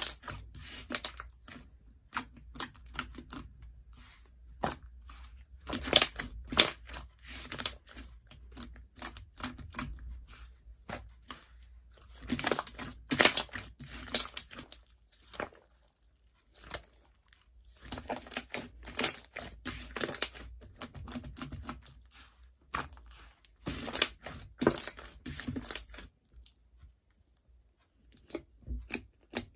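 Bursts of crinkling, crackling and tearing sounds, made of many close clicks, coming in clusters of one to a few seconds with short quiet gaps between them.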